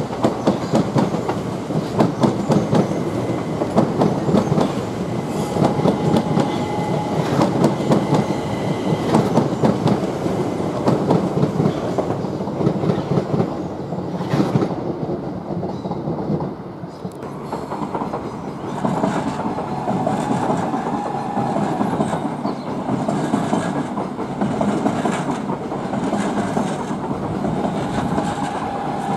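An electric multiple unit passing close by, its wheels clattering rhythmically over rail joints and points. After a brief lull near the middle, a second electric train runs more smoothly with a faint pulsing hum.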